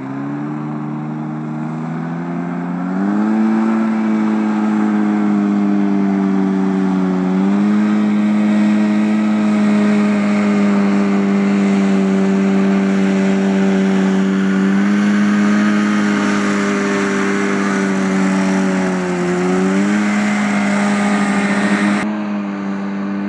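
SCAT 1 hovercraft's Rotax 503 twin-cylinder two-stroke engine, belt-driving the thrust fan, running hard. It revs up about three seconds in, holds a steady high pitch, and dips briefly twice before climbing back.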